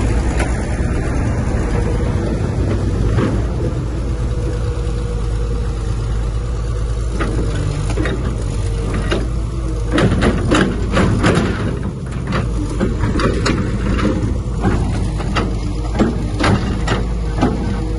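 Heavy diesel earthmoving machinery running steadily, with a series of metallic clanks and knocks from about seven seconds in.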